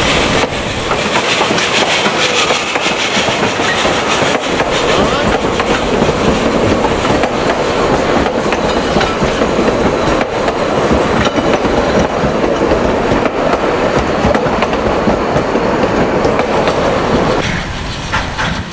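Vale of Rheidol narrow-gauge train running on the rails, a loud continuous rumble with rapid wheel clicks over the track. It falls away sharply about a second before the end.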